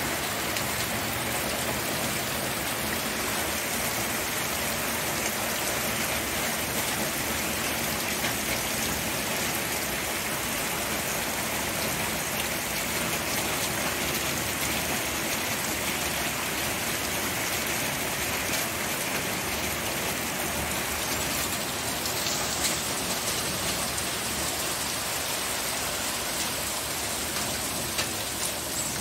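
Steady rain falling on a surface: an even hiss with faint scattered drop ticks, and no thunder.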